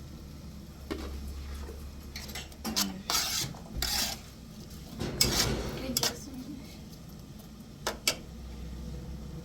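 Objects being handled: several scraping, clattering bursts through the middle, then two sharp clicks near the end, over a low steady hum.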